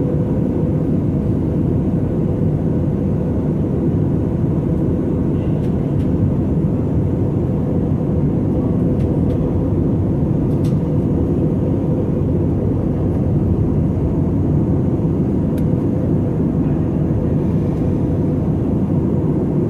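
Steady cabin noise inside an Airbus A320 airliner in flight: an even, low rush of engine and airflow noise with a faint steady hum, and a few faint ticks.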